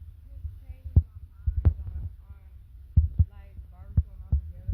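Low rumble on the microphone broken by irregular dull thumps, about one a second, with faint voices behind.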